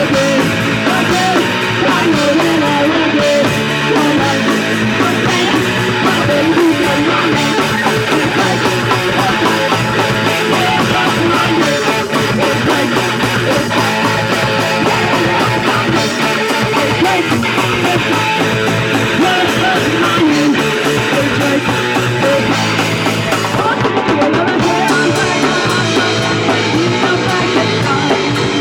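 Punk rock band playing, with electric guitar and a drum kit, steady and loud throughout.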